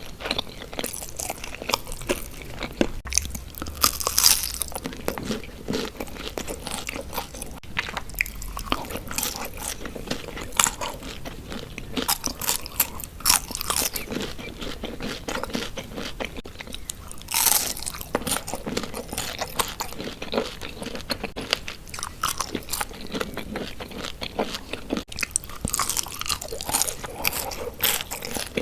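Close-miked eating of Indian sweets: a person biting and chewing, with many quick, irregular crunches and moist mouth sounds. Louder bursts of crunching come about four seconds in, around the middle, and again near the end.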